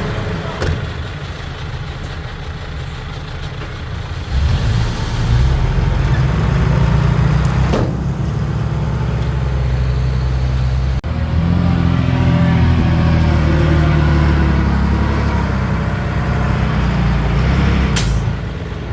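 Heavy diesel earthmoving machinery running under load, getting louder about four seconds in, with a brief sharp noise near the end.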